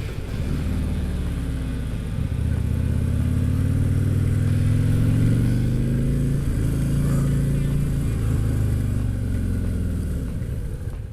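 Harley-Davidson Street Glide's V-twin engine under way, its pitch rising as the bike accelerates over the first few seconds, holding steady, then dropping and fading near the end as it slows, with wind rushing past the rider's microphone.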